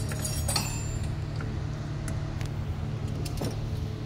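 A few light metallic clinks about half a second in, and a couple of sharp clicks later, over a steady low rumble.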